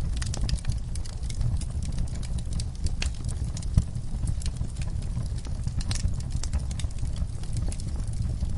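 Wood fire in an outdoor fireplace crackling, with irregular quick pops and snaps over a steady low rumble; one sharper pop a little before the middle.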